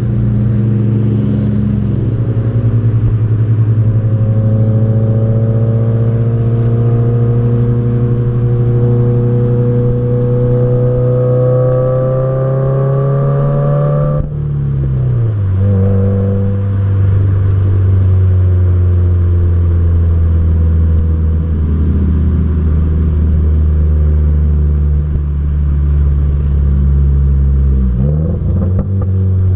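Exhaust of a 2015 Subaru WRX's turbocharged flat-four on the road. The drone climbs slowly in pitch under steady throttle for about half the time, then drops sharply and settles into a steady lower cruising drone, with a brief wobble near the end.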